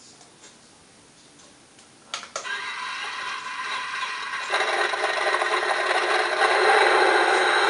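RC model bulldozer starting up and running: a click about two seconds in, then a steady mechanical whine with a rattle that grows louder and fuller about four and a half seconds in.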